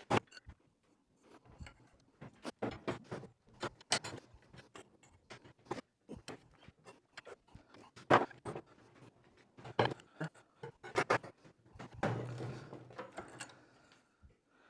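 Irregular knocks, clicks and clanks as a bent metal pipe is handled and worked by hand, with a longer rough scraping noise near the end.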